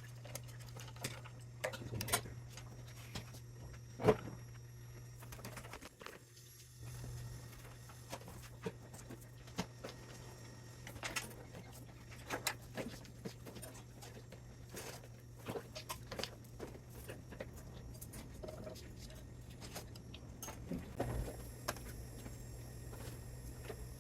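Scattered light clicks and knocks of tools and metal parts while a spot welder is taken apart for scrap, over a steady low hum, with one sharper knock about four seconds in.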